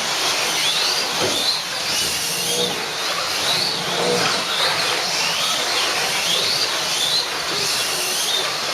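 Slot cars racing: the high whine of their small electric motors rises and falls over and over as the cars accelerate and slow around the track, over a steady rushing noise.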